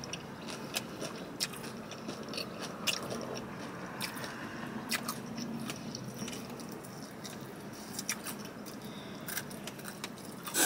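Close-up chewing and biting into a fried chicken wing, with scattered small crunches and wet mouth clicks.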